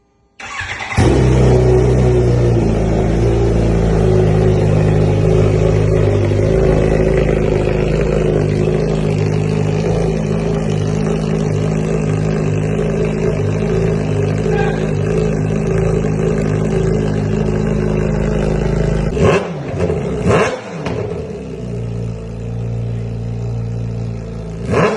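Kawasaki Ninja H2's supercharged inline-four fired up through a Brocks aftermarket exhaust and left running loud and steady. It is revved sharply twice about three-quarters of the way through and once more near the end.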